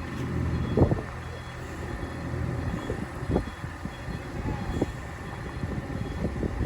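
Heavy truck's diesel engine running low and steady, with a faint high beep repeating over it and a few short knocks, the loudest just under a second in.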